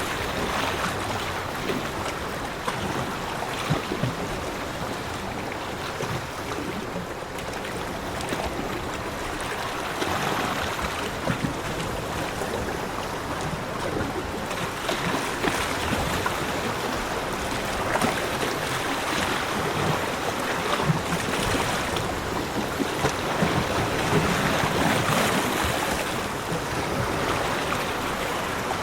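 Sea waves washing onto a beach, a continuous rushing that swells and eases every few seconds.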